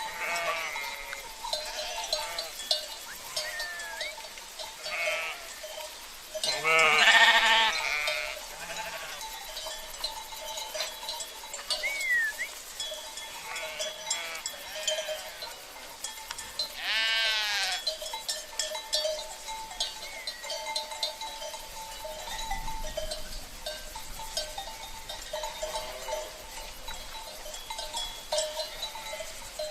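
A flock of sheep bleating, with a loud bleat about seven seconds in and another about seventeen seconds in, over steady clinking of bells worn by the livestock.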